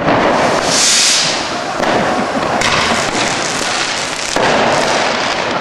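Many fireworks and firecrackers going off at once: a dense, loud crackle of bangs, with a bright hiss about a second in and sudden louder bangs near the middle and again later.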